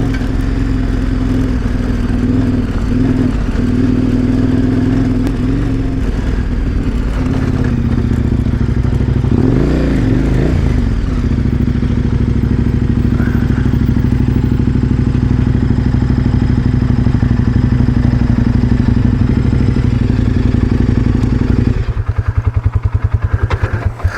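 KTM 1090 Adventure R's V-twin engine running as the motorcycle rides along, with the pitch dipping and rising again about ten seconds in. Near the end it drops to a low, pulsing idle as the bike comes to a stop.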